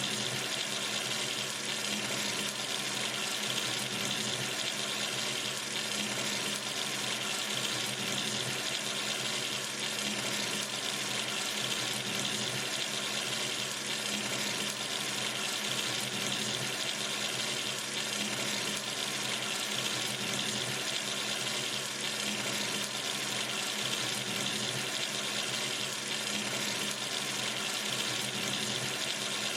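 A sink tap running steadily, water splashing into the basin in an even, unchanging rush.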